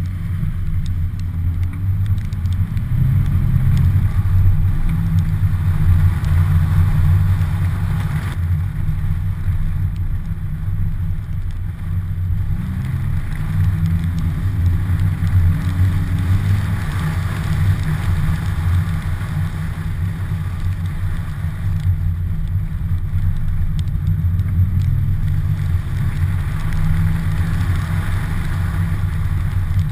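Volvo 740 GL driving on a snowy road, heard from a camera on its bonnet: the engine runs with a steady low rumble, revving up near the start and again about halfway through.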